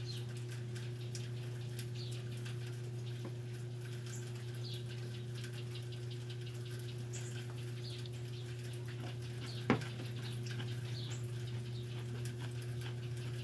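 A fork picking a slice of sweet refrigerator cucumber salad out of its container, then chewing: scattered faint clicks and crunches, with one sharper knock about ten seconds in. A steady low hum runs underneath.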